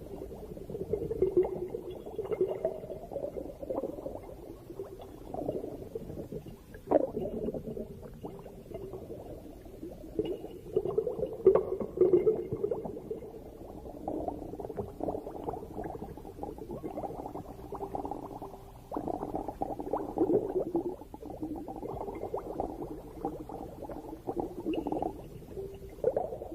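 Underwater bubbling and gurgling, going on irregularly in uneven surges.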